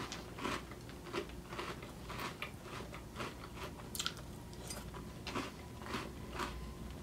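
Close-up chewing of Cocoa Puffs cereal softened in almond milk: a run of small, irregular crunches a few times a second.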